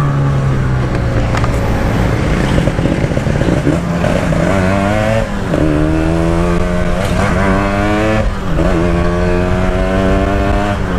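Two-stroke motorcycle engine under way, with its 'standart belek' Packing Power exhaust. The revs climb and drop back twice, about five and eight seconds in, like upshifts, then climb again.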